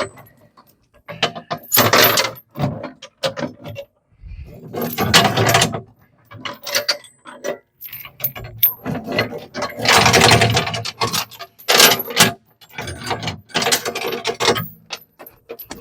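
Irregular metallic clanking and rattling in bursts, as the rigging holding a heavy box blade is slackened and handled.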